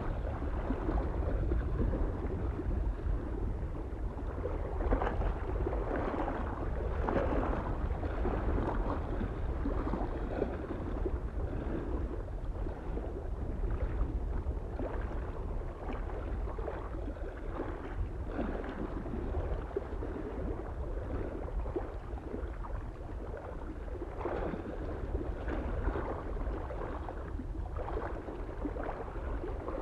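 Small lake waves lapping and splashing against the shore in an uneven, irregular rhythm, over a steady low rumble of wind on the microphone.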